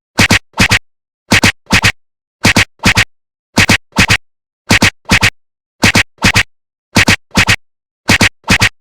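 Train wheels running over rail joints: a steady clickety-clack of paired sharp clacks, about one pair a second, with silence between the pairs.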